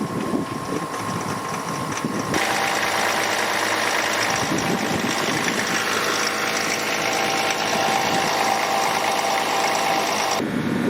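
3.0L Duramax inline-six diesel of a 2021 Chevy Silverado running at a steady idle on a cold start in about −12 °C. It comes in suddenly about two seconds in, after wind on the microphone, and cuts off abruptly near the end.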